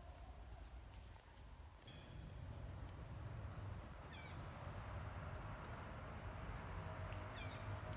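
Monkeys giving short, high, falling squeaks, about three times, over a steady low rumble.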